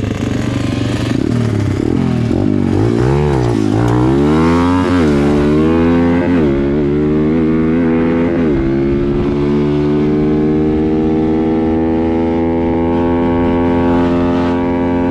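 Small dirt bike engine under riding load. For the first half it revs up and down in quick swings; then it holds one long note that slowly climbs in pitch.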